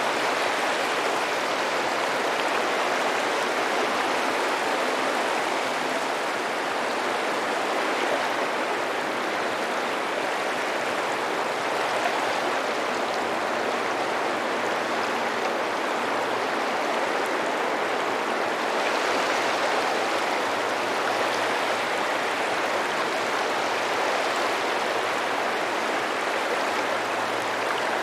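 Sea surf washing onto a beach, a steady rush of water with a slight swell about two-thirds of the way through.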